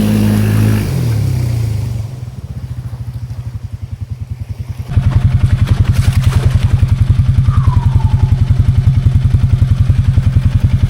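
Can-Am 700 XMR ATV engine revving briefly and dropping back to idle, then idling with an even chugging pulse that gets louder about five seconds in.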